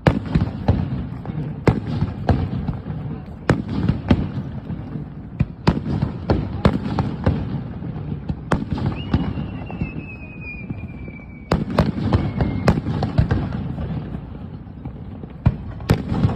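Fireworks display: a rapid string of loud bangs over dense crackling. A thin, slowly falling tone runs for a few seconds in the middle.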